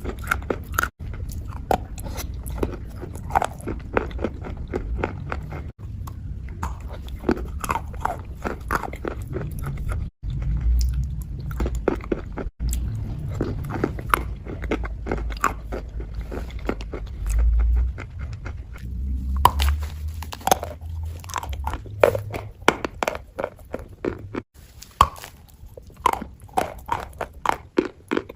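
Close-miked ASMR wet crunch: a crisp, paste-coated material crushed in a dense run of sharp crackles over a low rumble. It is broken several times by abrupt cuts between clips.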